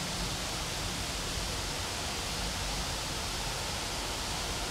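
Freight train of autorack cars rolling past, a steady wheel-on-rail rolling noise.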